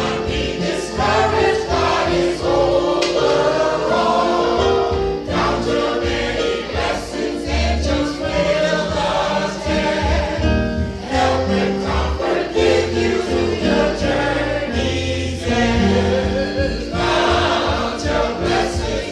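Choir singing a gospel hymn with instrumental accompaniment underneath.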